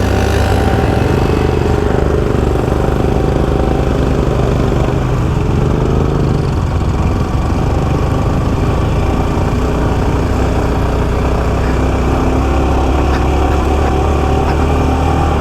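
Yamaha R15 V4's single-cylinder engine running at a steady, unchanging speed under way, with steady road and wind noise over the microphone.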